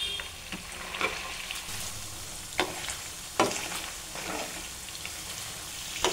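Paneer cubes sizzling as they fry in hot oil in a metal pan, a steady crackling hiss. A metal ladle stirring them knocks and scrapes against the pan several times, loudest in the middle.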